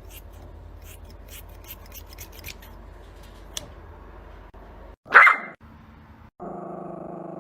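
A dog barks once, loud and falling in pitch, about five seconds in, after a stretch of faint low hum and light clicking. Near the end comes a steady, held, evenly pitched sound.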